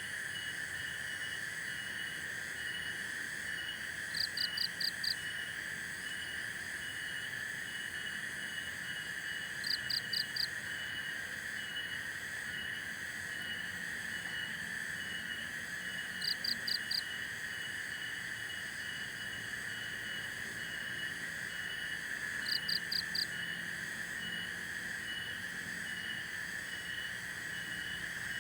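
Chorus of calling insects and frogs. A steady high drone runs under a regular pulsing call, and about every six seconds there is a short burst of four or five quick, higher chirps.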